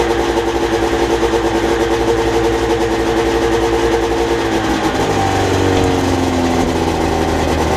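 1980 Ski-Doo Blizzard 7500 snowmobile's two-stroke engine running steadily while it warms up after a cold start. About five seconds in, its pitch drops and the note changes as the engine speed falls.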